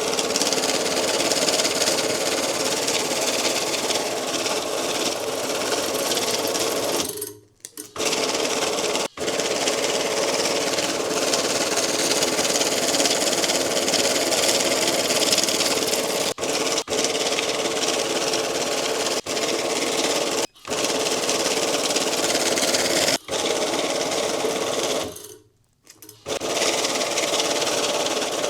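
Electric banknote counting machine running, riffling bills through in a fast, continuous rattle that stops briefly twice, about seven seconds in and near the end.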